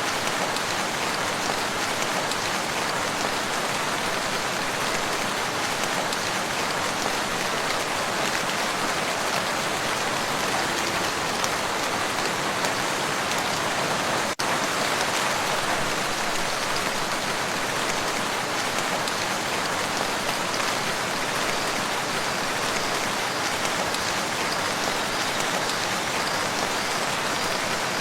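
Steady rain falling on a lake, an even, unbroken wash of drops, with a momentary dropout about halfway through.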